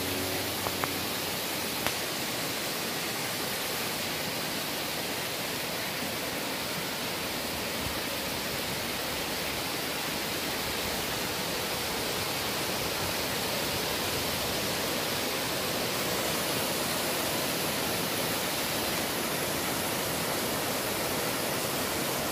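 Steady, even rushing of a mountain stream running over rocks.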